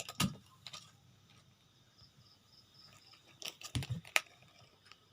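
A few scattered knocks and taps, the loudest a sharp one about four seconds in, over faint, evenly pulsed high chirping typical of a cricket.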